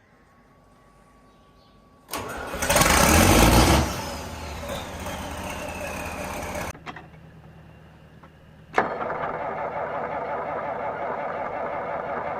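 John Deere 4440 tractor's six-cylinder diesel cold-starting: it cranks and fires about two seconds in, runs loudly with a falling whine, then the sound drops away suddenly. Near nine seconds, after a sharp click, a diesel runs steadily.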